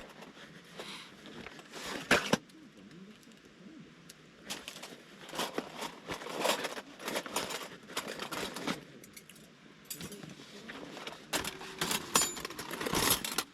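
Rustling handling noise with scattered clinks and knocks, as of gear or metal items being handled; the sharpest knocks come about two seconds in and near the end.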